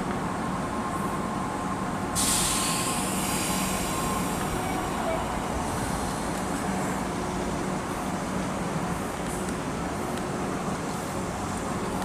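Train running past with a steady rumble and low hum; about two seconds in a sudden high hiss starts, then fades over the next few seconds.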